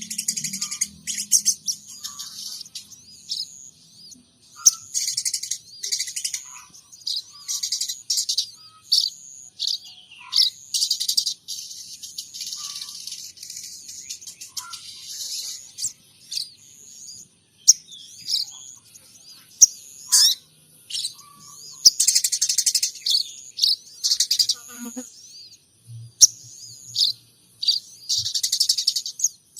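Sogon trotol songbird singing a long, busy run of sharp chirps, trills and short calls, mixing in imitations of munia and sparrow calls.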